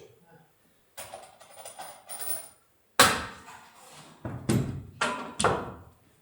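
Scraping and rattling, then four hard knocks: one loud blow about three seconds in and three more in quick succession near the end, each ringing briefly. The knocks are hammer or mallet blows on building material.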